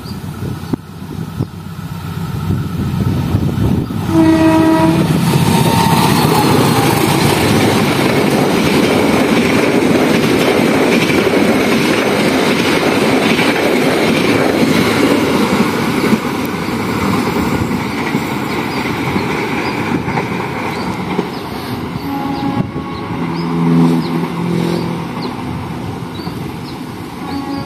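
A diesel-hauled Indonesian passenger train approaching and passing close by. The locomotive gives a short horn blast about four seconds in, then the train runs past loudly and steadily for about fifteen seconds before easing off. Another brief pitched sound comes near the end.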